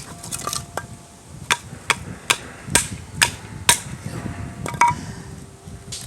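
A series of sharp striking blows, about two a second for a couple of seconds, with smaller knocks before and after, like a tool being hammered at a camp site.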